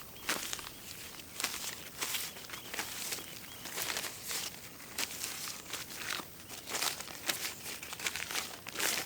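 Irregular crunching and crinkling from hands-on planting work in soil: a fig sapling being set into a freshly dug pit, with several short scrapes and crackles a second.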